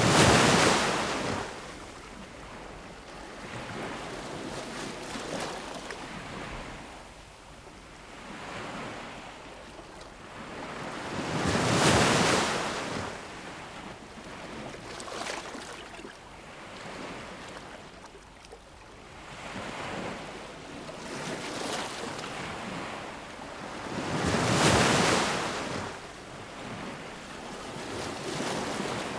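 Ocean waves breaking on a shore, with the surf washing steadily between them. The biggest waves crash about a second in, at about 12 seconds and at about 25 seconds, with smaller ones in between.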